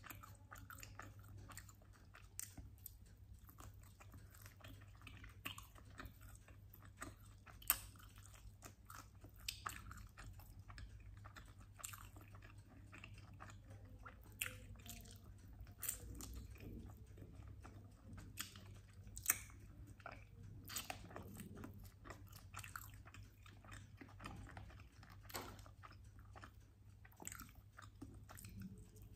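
Close-miked biting and chewing of sauced chicken wings: irregular soft crunches and sharp clicks of meat and crisp skin being bitten and chewed, with two louder crunches about a quarter and two-thirds of the way through.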